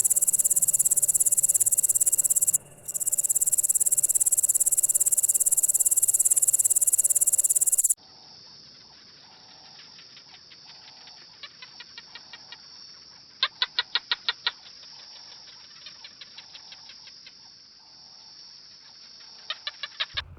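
A loud, dense, high-pitched insect drone, like cicadas or crickets, cut off abruptly after about eight seconds. It gives way to a quieter stretch of rapid ticking chirps, with a louder run of about eight quick clicks a second near the middle.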